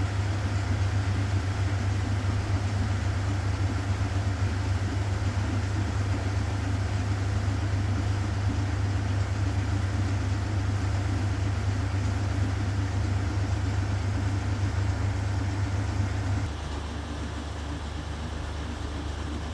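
A 1969 Zanker VA520 washing machine running, its Hanning gear motor giving a steady low hum with a rumble over it. Near the end the hum drops abruptly to a quieter, lower running sound.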